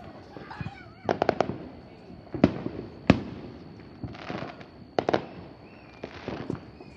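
Fireworks and firecrackers going off around the neighbourhood: sharp bangs, a quick run of four about a second in, two single bangs a little over half a second apart, then a pair near the end, with crackling hiss between. A faint steady high whine runs underneath.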